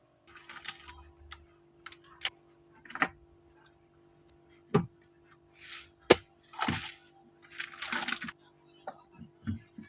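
Objects being handled: sharp clicks and knocks, the loudest about six seconds in, with short rustling bursts between them.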